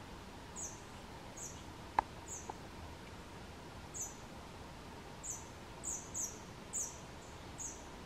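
A series of short, thin, very high-pitched bird calls, each slightly falling in pitch, about nine in all at irregular intervals and coming more often in the second half. A single sharp click sounds about two seconds in.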